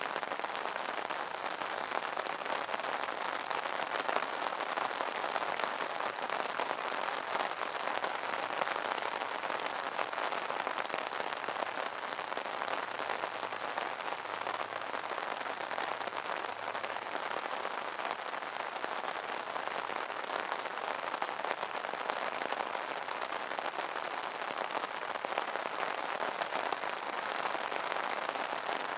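Rain pattering steadily on an umbrella canopy, a dense even spatter of drops without let-up.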